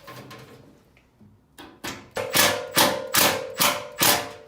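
A quick run of about seven loud metal strikes, as on sheet metal, starting about a second and a half in, with a ringing tone carrying on between the blows.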